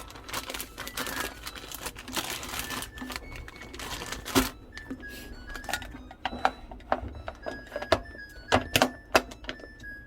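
Irregular sharp knocks and clicks of kitchen work, a few a second in the second half, with rustling early on, over quiet background music.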